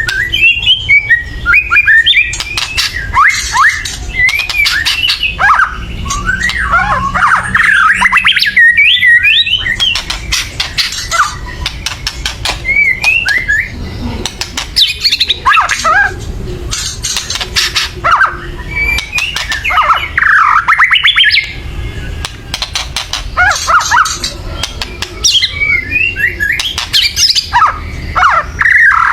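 White-rumped shama (murai batu) singing loudly in harsh, rattling 'kretekan' bursts of rapid clicks, mixed with quick gliding whistled notes. This is the agitated, worked-up call of an excited bird.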